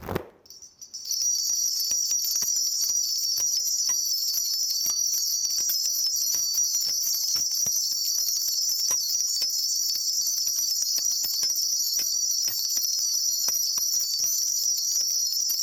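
A Korean shaman's cluster of brass ritual bells (mudang bangul) shaken continuously in a steady, dense jingle, starting about a second in, as the shaman consults the spirits before answering.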